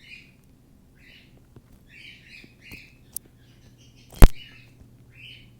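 Cockatiel chirping in a series of short calls, with a loud sharp crack about four seconds in and a smaller click shortly before it.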